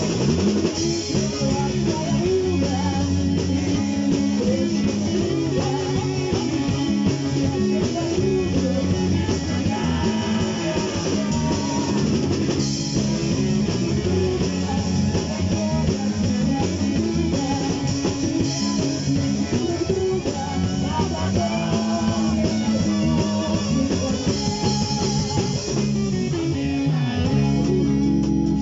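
Rock band playing an instrumental break: guitar over bass and a drum kit, with no vocals.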